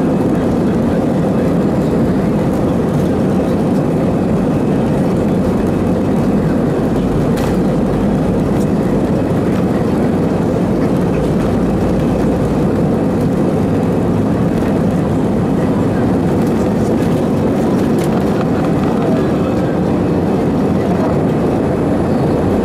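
Steady roar of an Airbus A319-112's CFM56 jet engines and rushing airflow, heard from inside the passenger cabin during takeoff.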